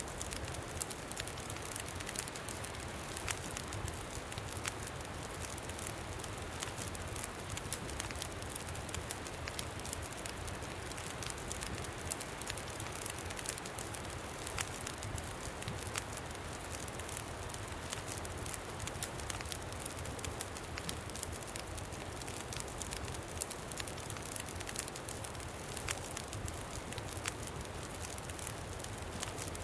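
Campfire crackling with frequent small sharp pops, over a steady low rumble of wind.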